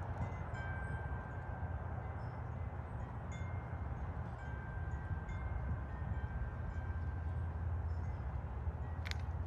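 Wind chimes ringing: several long, clear tones at different pitches sounding one after another over a steady low rumble, with a sharp click near the end.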